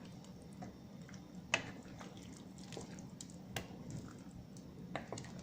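A spoon stirring noodle soup in a pot, with a few sharp clinks of the spoon against the pot over a low steady hum.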